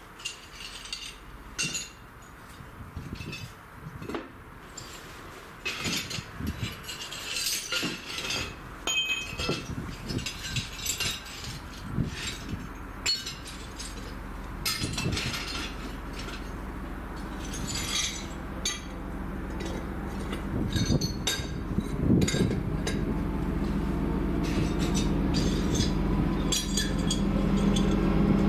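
Irregular sharp metallic clinks and pings, typical of rails ringing as a train approaches, with a low rumble from the oncoming train growing steadily louder over the last several seconds.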